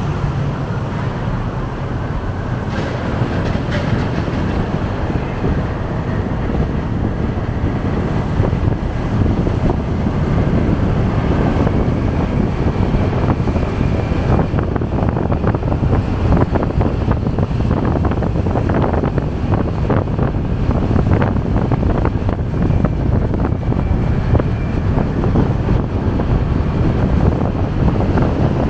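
Wind rushing over the microphone on a moving motorcycle, over steady road and traffic noise, a little louder from about ten seconds in.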